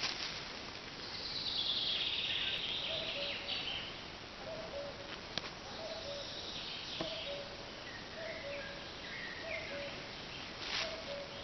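Wild birds calling: a high twittering early on, then a low two-note call, the second note lower, repeated about once a second, over a steady outdoor background with a few light clicks.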